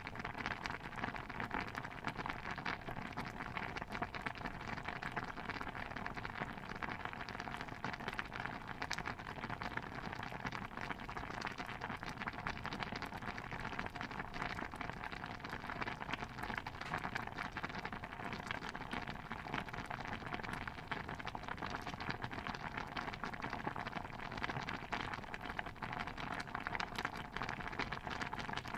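Thick stew bubbling in a pot: a steady, dense patter of small pops and plops.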